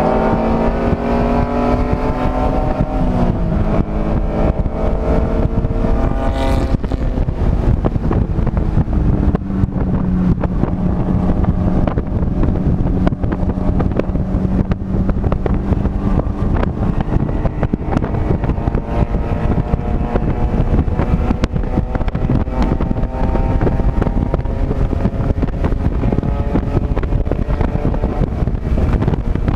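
Race car engine heard from on board while lapping a circuit, over heavy wind and road rumble. The revs fall over the first few seconds, with a step down about three seconds in, then hold steady for a long stretch and build slowly again near the end.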